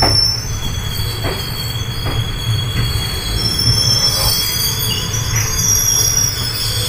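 Passenger train coach rolling slowly into a station, heard from inside: a low rumble with a steady high-pitched wheel squeal and a few faint knocks from the wheels.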